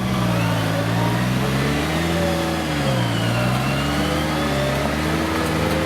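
Off-road competition vehicle's engine running under load, its pitch dipping about halfway through and climbing back, with a faint higher whine.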